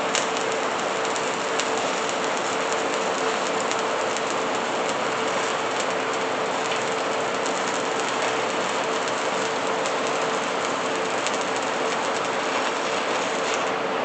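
Electric welding arc burning steadily as a bead is laid, a continuous crackling sizzle, with a steady hum underneath.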